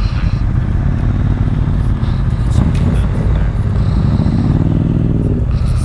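Motorcycle running along the road under a steady low rumble, its engine note rising and falling briefly about four seconds in.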